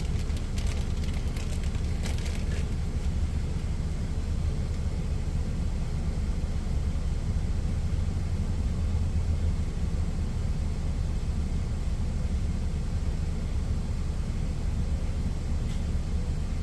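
Steady low rumble of an idling truck engine, with a few light clicks and rustles in the first couple of seconds.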